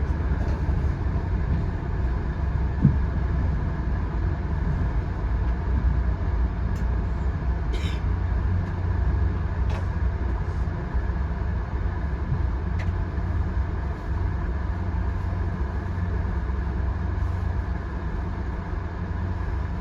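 Steady low rumble of a VIA Rail passenger train rolling along the track, heard from inside the coach, with a few faint clicks and squeaks along the way.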